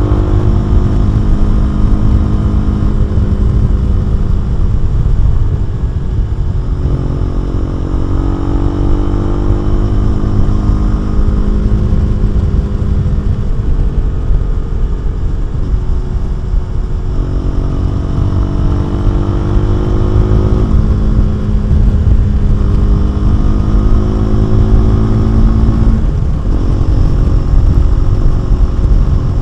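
KTM 390 Duke single-cylinder engine and exhaust under way. Its pitch climbs as it pulls through the revs and drops at each gear change, several times, with a sharp drop near the end.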